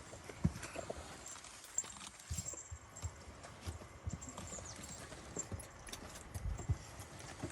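Jindo puppies nursing from their mother: irregular suckling and smacking with soft knocks, and faint jingles from the small bells on their collars.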